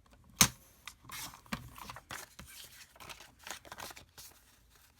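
Paper being cut for a photo background: a sharp click, then a run of short, crisp snips.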